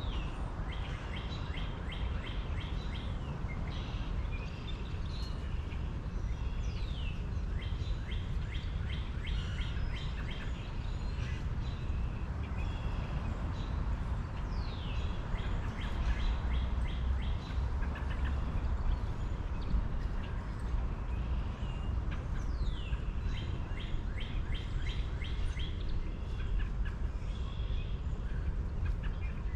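Birds chirping and calling outdoors, with quick downward-sweeping calls every few seconds and rapid runs of chirps, over a steady low rumble.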